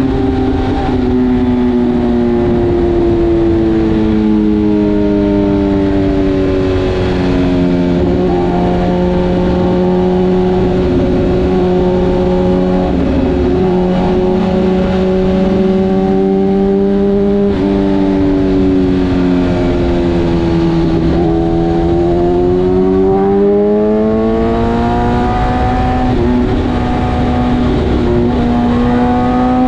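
BMW S1000RR inline-four engine running at road speed, its pitch dropping in a couple of steps in the first several seconds, holding steady, sagging a little about twenty seconds in, then rising steadily as the bike accelerates. A low rush of wind and road noise sits under the engine.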